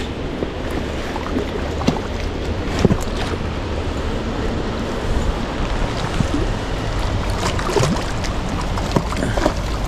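River water rushing steadily, with a few short knocks in the middle and near the end.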